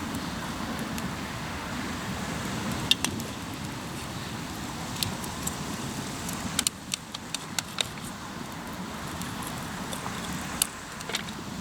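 Wood campfire in a fire stand crackling, with sharp single pops: a pair about three seconds in, a quick cluster past the middle and one near the end. A steady rushing noise runs under it throughout.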